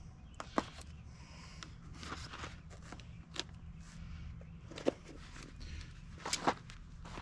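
Scattered clicks and knocks of lug nuts and wheel hardware being handled while a wheel is fitted, four of them louder, over a low steady hum.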